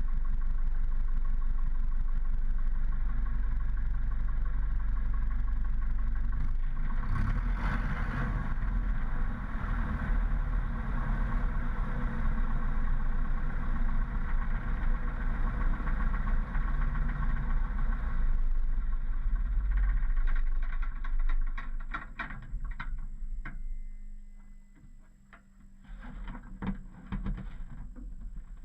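Piper Super Cub floatplane's engine idling steadily, picking up briefly about seven seconds in, then dying away a little after twenty seconds. Scattered knocks and clatter follow near the end.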